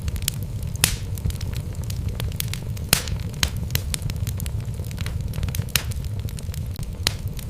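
Wood fire burning in a fireplace, with irregular sharp crackles and pops from the logs over a steady low rumble; the loudest pops come about a second in and about three seconds in.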